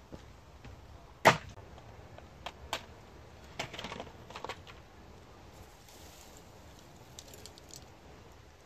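Firewood being handled while a campfire is built: one sharp snap about a second in, then a few smaller cracks and knocks, and faint ticks near the end.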